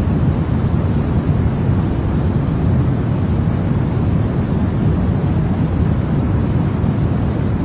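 Continuous white noise played as a baby sleep aid: an even, unchanging rushing sound, heaviest in the deep low end, with no breaks or changes.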